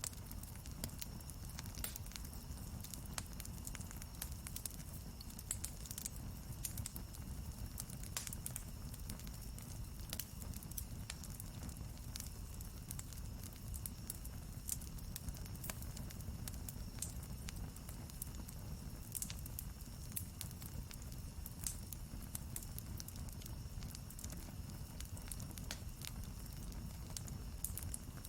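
Wood campfire burning, with frequent small crackles and pops over a steady low rumble.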